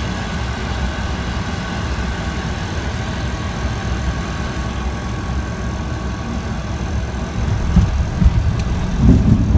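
Light aircraft's engine and airframe noise heard from the cockpit on final approach: a steady drone with a thin whine over it. Near the end the low rumble grows louder, with uneven knocks and bumps.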